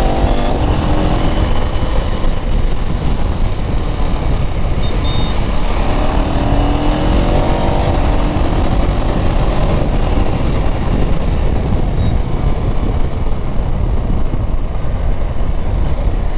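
KTM Duke 390's single-cylinder engine under way, with a steady heavy low rumble throughout. The engine note rises as it pulls, near the start and again from about six to eight seconds in.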